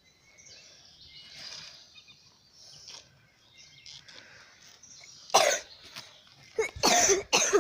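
A person coughing a few times, loud and short, after some seconds of faint rustling.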